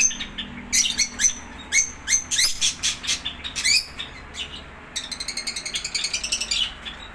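Lovebirds and other small aviary birds chirping: many short, high chirps, with a fast run of rapid chirps about five seconds in.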